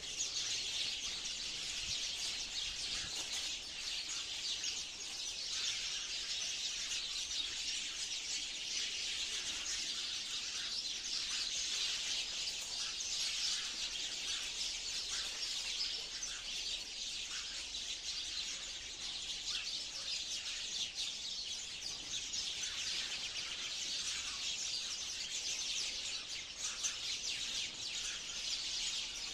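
A flock of sparrows chirping together in a dense, continuous chorus of many overlapping high chirps.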